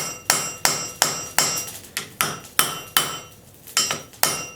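Hand hammer striking the hot end of a railroad spike on an anvil, upsetting it to thicken the end. The blows come about two and a half a second, each one ringing, with a brief pause a little past the middle.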